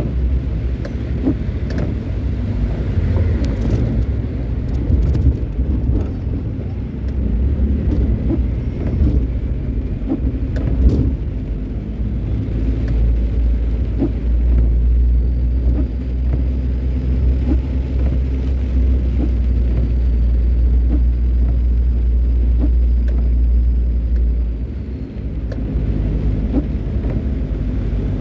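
Car on the move, with a steady low engine and road rumble and scattered light clicks and knocks. The rumble is heaviest through the middle and dips briefly near the end.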